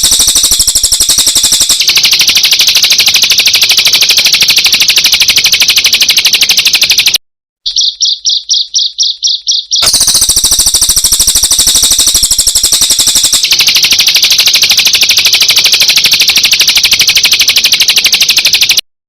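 Edited songbird recording for bird-song training: long, very fast, high-pitched trills. About seven seconds in the trill breaks off, then a few seconds of slower, separate chirps follow, about five a second, before the fast trill starts again.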